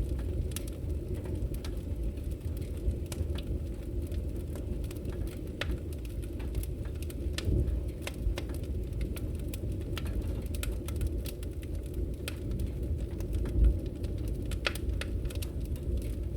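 Firewood burning: a steady low rumble of the fire with frequent irregular crackles and pops, one louder pop about three-quarters of the way through.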